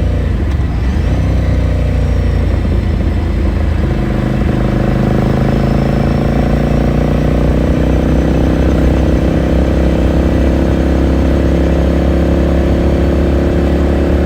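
Onboard sound of a 2018 Ducati Scrambler Sixty2's air-cooled 399 cc L-twin engine and exhaust running under way. About four seconds in the engine note settles into a steady pitch that rises slowly.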